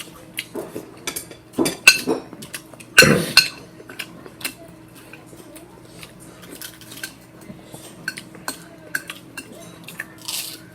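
Cutlery clinking against dishes: a scatter of small clicks, with louder clatters about two and three seconds in.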